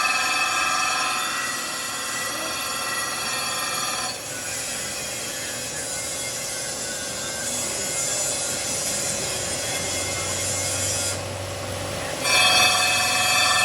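Workshop machinery running with a steady, many-toned whine over continuous grinding noise. The whine drops away about four seconds in and comes back near the end.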